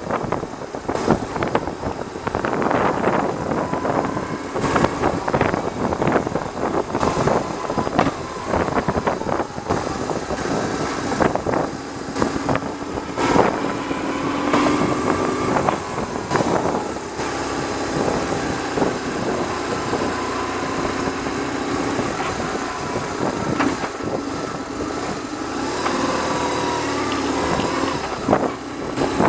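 BMW R1100R's boxer twin engine running at road speed under heavy wind buffeting on the microphone, which the rider puts down to the windscreen. From about halfway the buffeting eases and the engine's note comes through more clearly, its pitch rising and falling.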